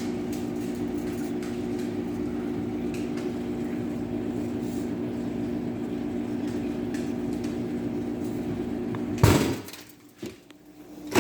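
Microwave oven running with a steady hum. About nine seconds in comes a sudden loud bang, and the hum cuts off.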